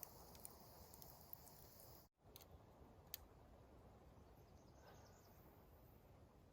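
Near silence: faint outdoor ambience with a high insect-like hiss in the first two seconds and a few soft clicks. A sudden dropout to nothing about two seconds in marks an edit cut.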